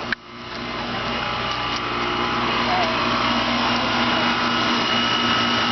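Central air-conditioner condensing unit running: a steady compressor hum with a fan's hiss and a faint high whine, coming up within the first second or so after a brief drop-out.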